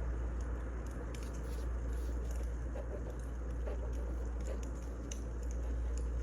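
Wood fire burning, with scattered small crackles and pops over a steady low rumble.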